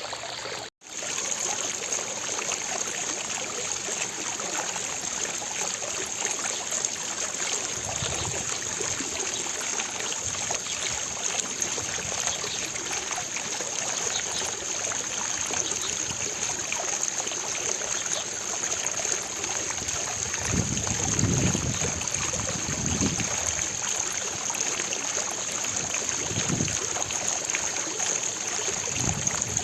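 Fountain water splashing and pouring steadily, with a brief dropout under a second in and a few low rumbles later on.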